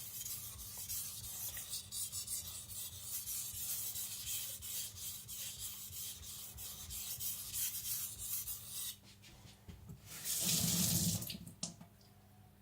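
A Tojiro shirogami nakiri blade stroked lightly back and forth on a Naniwa Professional water stone, with only the blade's weight on it, to flip the burr from side to side: a run of rubbing strokes. The strokes stop, and about ten seconds in a brief rush of water lasts about a second.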